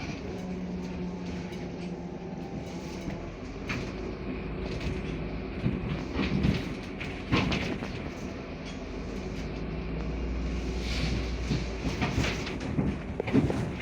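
Interior of a MAZ 105 articulated city bus on the move: a steady engine and road drone with rattling from the cabin. There are several sharp clattering knocks around the middle and again near the end.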